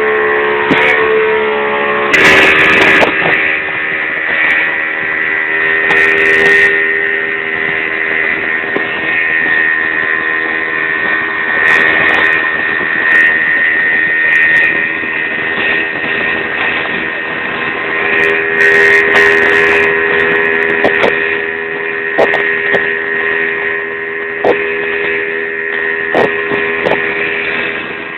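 Speedboat engine running steadily at speed over a rushing hiss, with occasional short sharp knocks.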